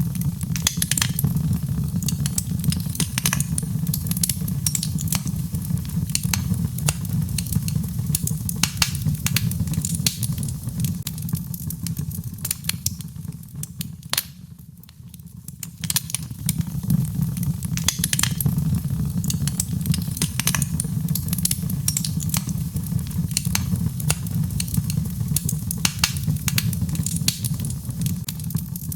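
Birchwood fire burning in a fireplace: a dense, irregular crackle and pop of burning wood over a steady low rumble of the flames. About halfway through, the crackling briefly dies down and the fire goes quieter for a couple of seconds before picking up again.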